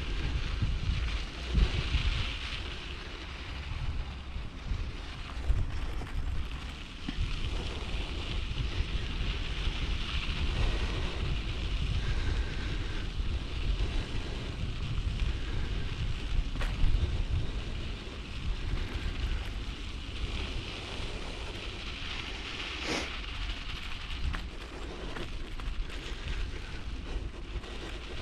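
Wind buffeting the microphone and bicycle tyres rolling over a rough dirt footpath, a steady rumbling noise with a few sharp knocks from the bike over bumps.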